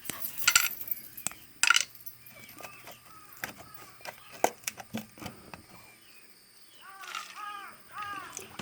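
A dog eating from a food bowl: irregular clicks and clinks of food and bowl, a few of them sharper. Near the end there are several short calls, each rising and then falling in pitch.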